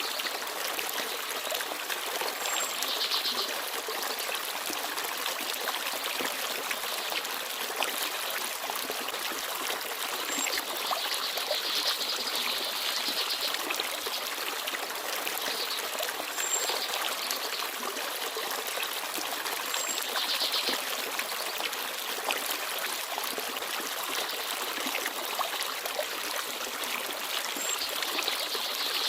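Forest stream babbling and trickling steadily over stones. Short, high bird chirps come a handful of times.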